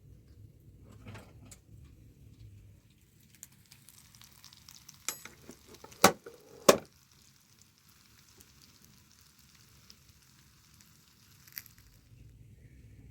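Food sizzling over an open fire. The hiss starts about three seconds in and stops near the end, with two loud, sharp knocks about halfway through.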